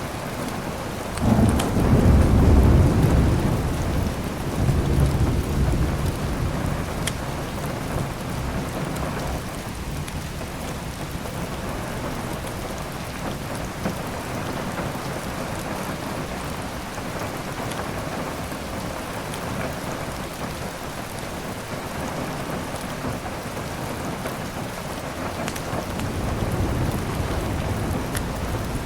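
Steady heavy rain with a loud roll of thunder about a second in that rumbles on for several seconds, and a softer rumble near the end. A few sharp pops from a crackling fireplace are heard over the rain.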